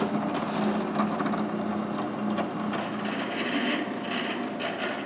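Electric drill boring holes into wood: a steady motor hum with the bit scraping through the wood, drilling the dowel holes at the marks left by center finders.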